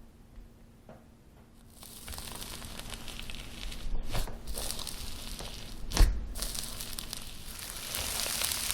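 Slime handled by hand, giving a crackly, sticky noise that starts about two seconds in, with sharp pops about four and six seconds in.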